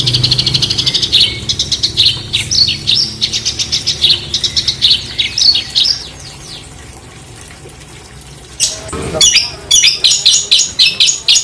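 Songbird singing fast, harsh bursts of high chirps and trills, a rough rapid-fire masteran song. The song drops away for about two seconds past the middle, then comes back with a loud sharp sweeping call and more quick chirps.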